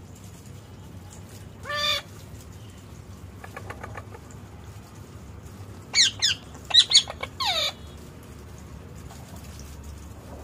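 Pet parrot squawking: one short call about two seconds in, then a quick run of about five loud calls a few seconds later, several of them falling in pitch.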